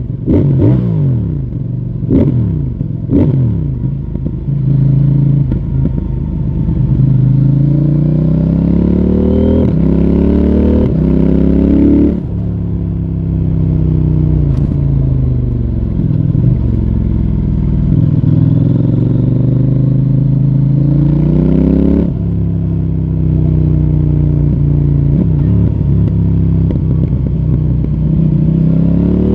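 CFMoto 800NK Advanced's 799 cc parallel-twin through its stock exhaust while riding: falling revs with a few sharp cracks in the first few seconds, then the engine pulling up through the gears with rising pitch. The revs drop about twelve seconds in and again about twenty-two seconds in, each time climbing again afterwards.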